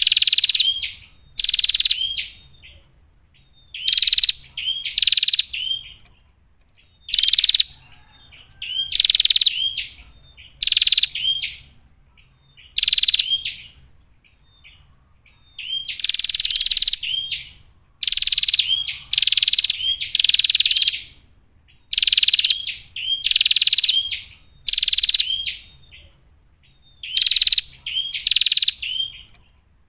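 A female prinia (prenjak) calling: loud, buzzy bursts of rapid notes, each under a second long and often in pairs, repeated every second or two.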